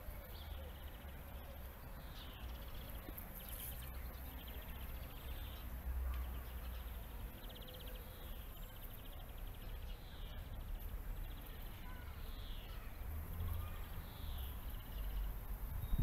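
Small birds calling outdoors: short falling chirps repeat every second or so, with a few brief trills, over a steady low rumble.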